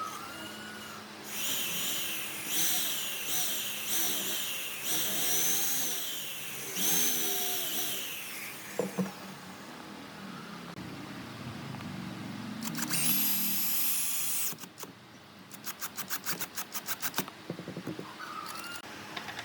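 Power tools working wood in a series of short bursts, their pitch sliding up and down, then one steadier high-pitched run and a quick train of rapid clicks.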